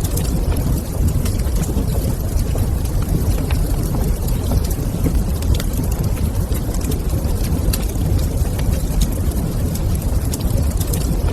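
Wood fire in a fireplace crackling: scattered sharp pops and clicks over a steady low rumble.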